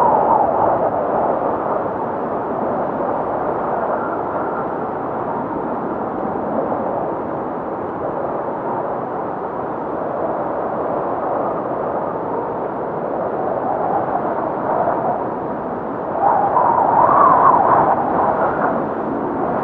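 Strong blizzard wind blowing and howling steadily, swelling in gusts, with a louder gust in the last few seconds.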